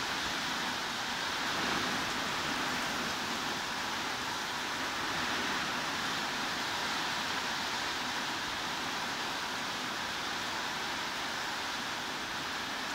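Heavy rain falling steadily: a dense, even hiss with no single drops or changes standing out.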